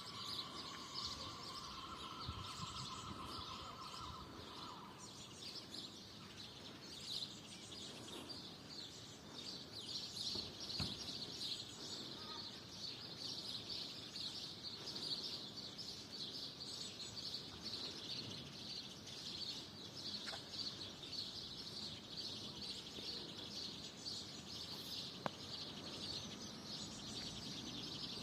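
Small birds chirping continuously in a dense chorus of rapid, high chirps. A steady high tone sounds for the first few seconds, then stops.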